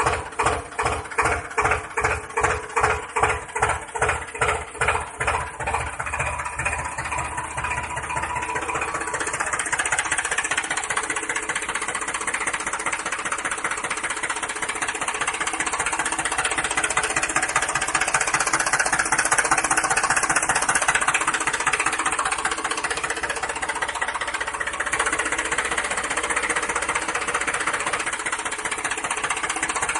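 A small engine-driven machine runs. It starts with separate slow knocks, about two a second, that speed up and merge into a steady mechanical running noise within the first several seconds.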